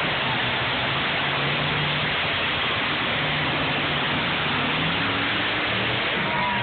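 Monster truck engines running, heard as a steady loud rushing noise with a low engine note that comes and goes.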